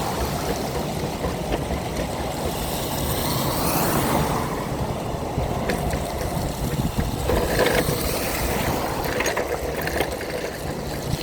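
Steady rumble and hiss of a wheelchair riding along a wet road in the rain, its small wheels running over wet pavement. A hiss swells about three to four seconds in.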